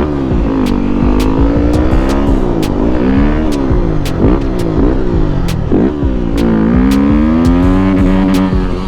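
Yamaha WR250 dirt bike's single-cylinder four-stroke engine being ridden hard, revving up and dropping back repeatedly, about once a second, then holding a longer, steadier climb near the end. Sharp clicks come through now and then.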